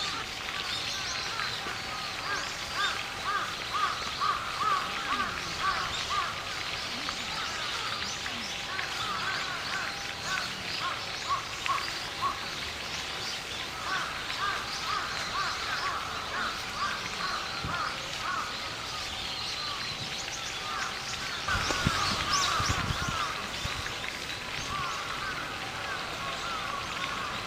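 Brown-eared bulbuls calling outdoors, a dense run of short, harsh, repeated calls, with a brief low rumble about three-quarters of the way through.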